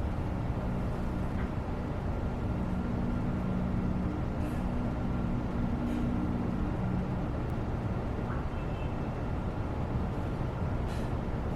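Steady low background rumble with a faint hum, broken only by a few faint ticks.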